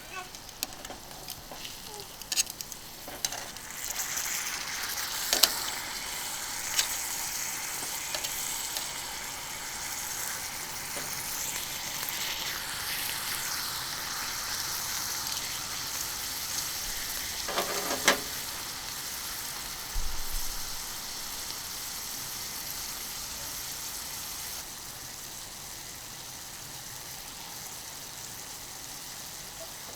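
Food sizzling on a hot iron griddle: a steady frying hiss that swells about four seconds in and drops back near the end, with a few sharp clicks and knocks of utensils, the loudest about eighteen seconds in.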